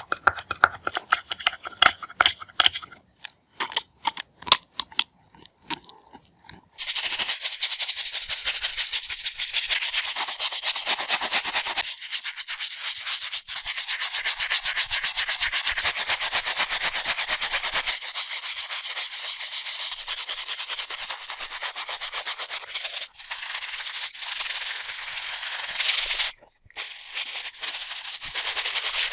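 A stiff cleaning brush scrubbing a sneaker in fast strokes, a continuous rasping that starts about seven seconds in and runs with a few short breaks. Before it come scattered light clicks and knocks of handling.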